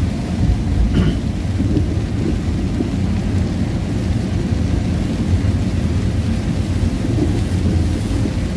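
Heavy rain on a moving car, heard from inside the cabin: a steady low rumble of rain and tyres on the wet road.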